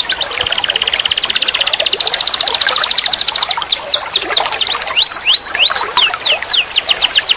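Domestic canary singing: fast trills of rapidly repeated high notes, switching about three and a half seconds in to a series of slower downward-sweeping whistles and a few short notes, then back into a fast trill near the end.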